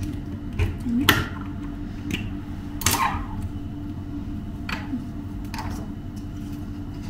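A few sharp knocks and clicks of objects being handled, each with a short ringing tail, over a steady low hum.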